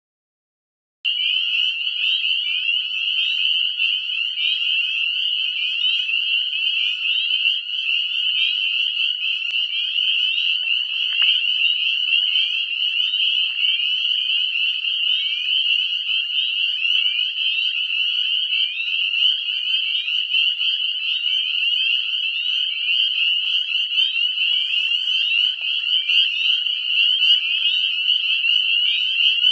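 A deafening breeding chorus of northern spring peepers: countless short, rising high-pitched peeps overlapping into one continuous shrill, starting about a second in.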